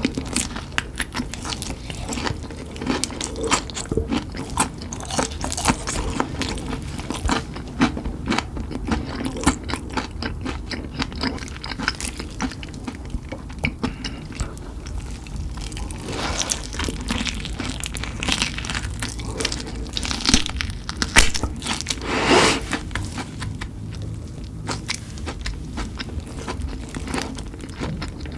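A person biting and chewing spicy chicken: a steady run of crunching, with a few louder crunches past the middle.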